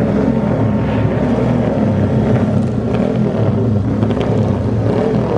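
Motorcycle engine running steadily at a fairly constant speed.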